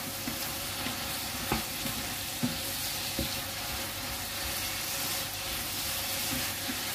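Mung bean sprouts and glass noodles sizzling in a frying pan as a wooden spatula stirs them, with a steady hiss and a few light knocks of the spatula against the pan.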